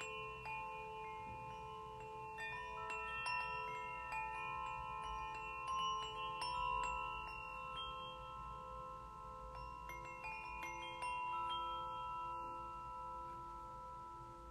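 Struck metal sound-healing instruments (a steel tongue drum, singing bowls and a small bell) with notes overlapping and ringing on for several seconds. Fresh strikes come every second or less, over a faint low rumble.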